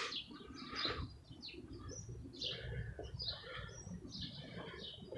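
Small birds chirping, many short high chirps in quick succession, over a faint low rumble of outdoor background noise.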